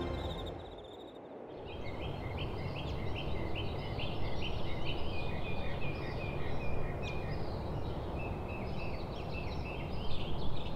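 A bird calling over steady outdoor background noise: a quick series of short, repeated high notes, about two or three a second, starting a couple of seconds in and running on.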